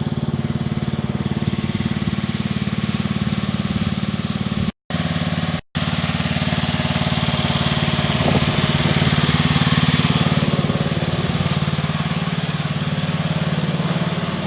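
John Deere 111 lawn tractor engine running steadily. The sound drops out completely twice, briefly, around the middle.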